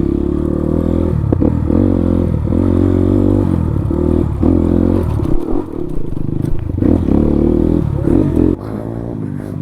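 Motorcycle engine running under changing throttle on a rough dirt trail, its pitch rising and falling several times, with some clatter from the bike over the bumps. It gets quieter about eight and a half seconds in.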